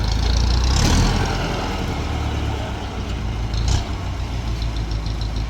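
Tractor's diesel engine running steadily at a low, even speed, a little louder in the first second, with a brief knock a little past halfway.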